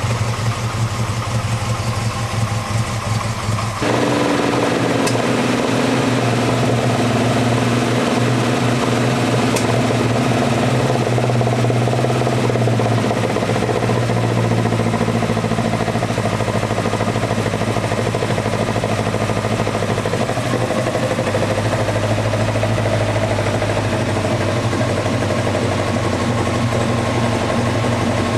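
Alfa Romeo Duetto Spider's four-cylinder engine with twin Weber carburettors idling steadily while it is being tuned. About four seconds in the sound abruptly gets louder and fuller, and the idle note then settles a little lower.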